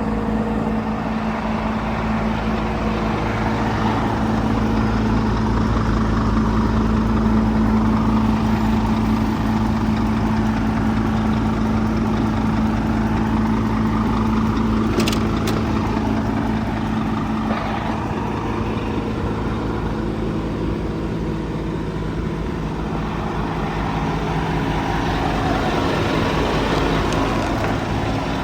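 Scania P 230 truck's diesel engine idling steadily, with one short click about halfway through.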